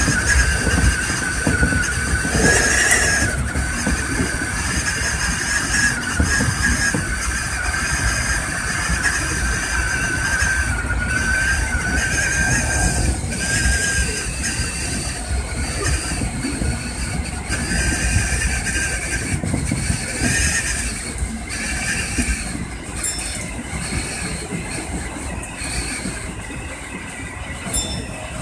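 Electric commuter train running at speed, heard from inside the front cab: a steady rumble of wheels on rail with a wavering high-pitched whine that fades in and out, and scattered clicks over the rail joints.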